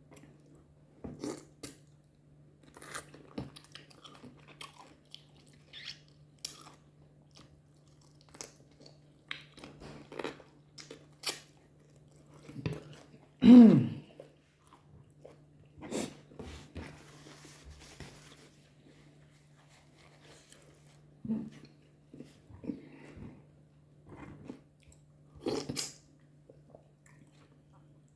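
Close-up eating sounds of a person eating fufu with goat meat soup: chewing, lip smacks and slurps as scattered short clicks. About halfway through comes a short low voiced sound that falls in pitch, the loudest moment.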